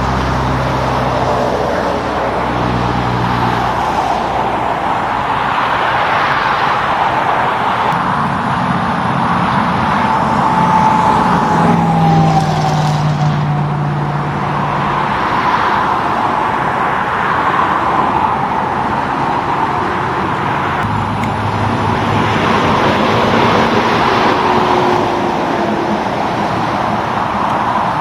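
Highway traffic, cars and heavy trucks passing one after another, the tyre noise swelling and fading as each goes by, with the low hum of big truck engines at times.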